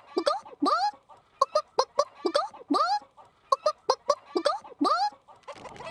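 A person imitating a chicken, clucking in about five repeated phrases: a few short clucks, each phrase ending in a longer drawn-out call that rises and falls. A short rushing noise comes in near the end.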